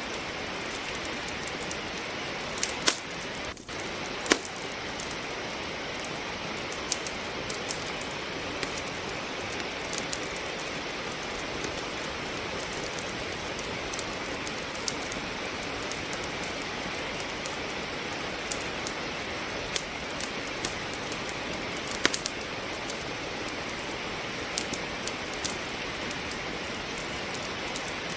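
Steady rain falling, with a wood fire in a fireplace crackling over it in scattered sharp pops, a few of them louder, about three and four seconds in and again around twenty-two seconds in.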